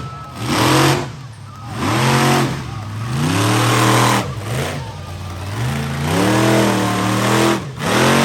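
Monster truck engine revving hard in repeated bursts, its pitch climbing and dropping about five times, with a rush of noise at each peak.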